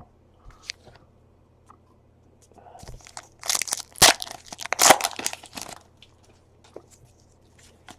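Wrapper of a trading card pack crinkling and tearing open, a cluster of loud rustling tears about three to six seconds in, with faint clicks and rustles of card handling around it.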